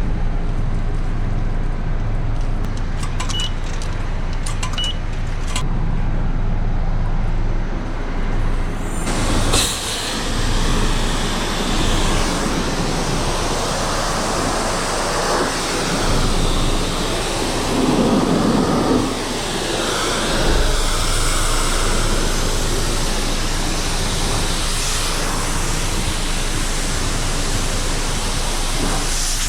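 Steady low machine hum with a few light clicks, then about nine seconds in a loud, steady hiss of high-pressure water spray starts and keeps going, as a car wash rinse wand is run over the car.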